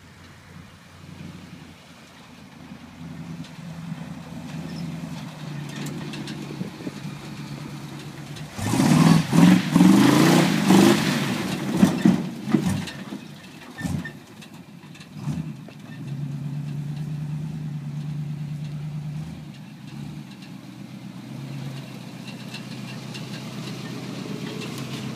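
Engine of a 1973 Chevy C-20 4x4 pickup running and revving as the truck slides through mud. About nine seconds in, a loud, harsh surge of revving and rushing noise lasts some four seconds, then the engine settles into a steady drone before easing off.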